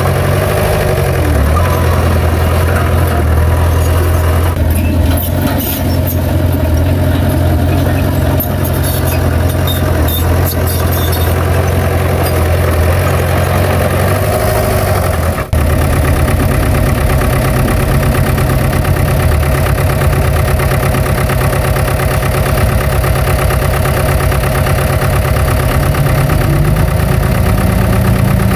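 Diesel engine of heavy earthmoving machinery running steadily, with a brief break about halfway through and the engine pitch rising slightly near the end.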